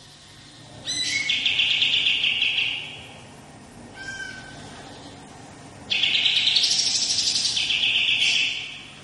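A kapas tembak songbird singing long rolling trills: two phrases of two to three seconds each, about a second in and again about six seconds in. Each opens high and drops into a fast, even trill. A short faint call comes between them.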